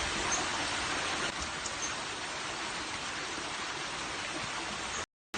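Waterfall: a steady rush of falling water that cuts out suddenly near the end.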